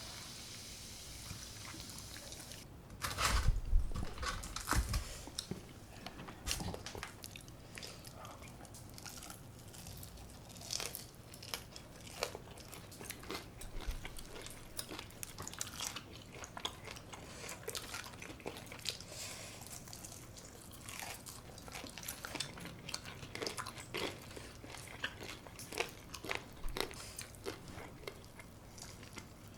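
Close-miked eating: loud crunching bites into crispy brown-rice-coated baked chicken about three seconds in, then steady chewing with many small crunches. A faint steady hiss comes before the first bite.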